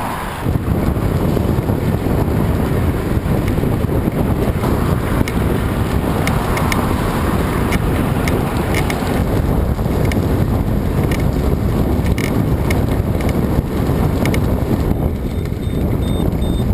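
Strong wind buffeting the microphone: a loud, steady, rumbling wind noise, with faint scattered ticks.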